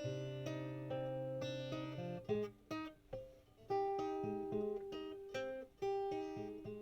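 Acoustic guitar played solo, picked notes and strums ringing out. About two seconds in it breaks into a few short, choked strums before the ringing chords return.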